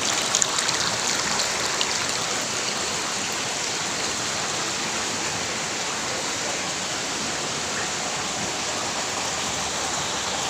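Steady rushing of flowing water, an even hiss with no change throughout.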